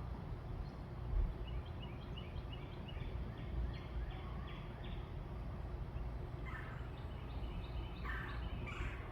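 Birds calling: a quick run of short repeated notes, then harsher calls about every second and a half near the end, over a steady low rumble.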